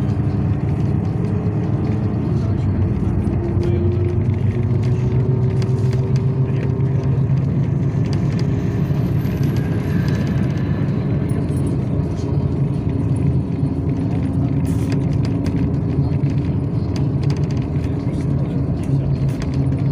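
Yutong ZK6118HGA city bus driving, heard from inside the cabin: a steady engine drone and road rumble, with an engine note that drifts slowly up and down and scattered small rattles.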